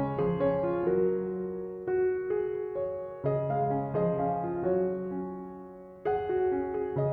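Background piano music: a gentle melody over sustained chords, with new phrases starting about every second or two.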